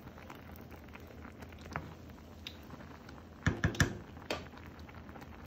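Kitchen utensils and containers being handled: a few sharp clicks and taps, the loudest a quick cluster of about four about three and a half seconds in, over a faint steady background.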